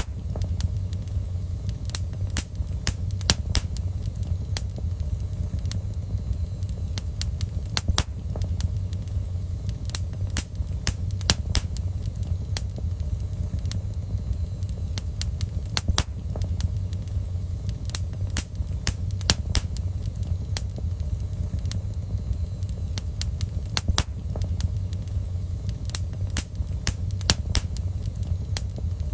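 Fire crackling in a fireplace: sharp pops and snaps scattered irregularly over a steady low rumble.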